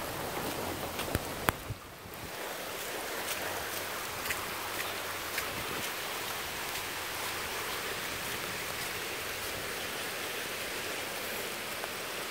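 Steady rain falling, an even hiss, with a few sharp ticks near the start and a brief drop in level just before two seconds in.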